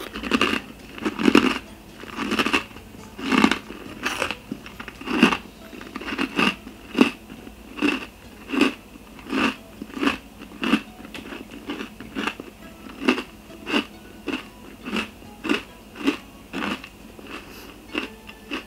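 A person chewing a crisp, buttery sugar rusk made from bread: a few heavy bites in the first five seconds, then steady crunches about one and a half a second.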